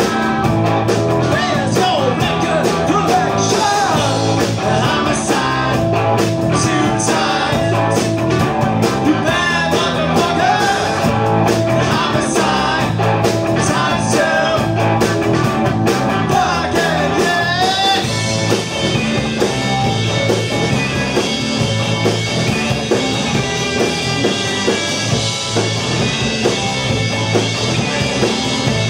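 Live rock band playing: electric guitar, bass and drums, with singing. The sharp drum hits stop about eighteen seconds in, leaving a sustained wash of guitar and cymbals.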